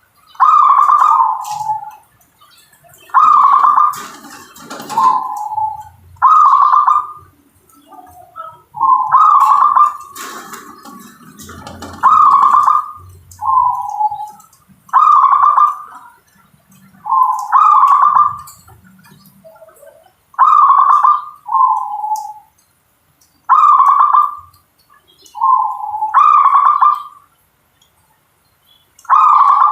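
Zebra dove (perkutut) cooing: short rolling coo phrases repeated every two to three seconds, with a few soft low thumps between them.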